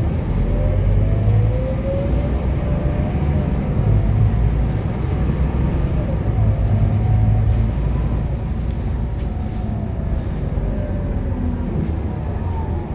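Scania K230UB single-deck city bus under way, heard from on board. There is a steady low engine and road rumble, with a whine that slowly rises and falls in pitch as the bus changes speed.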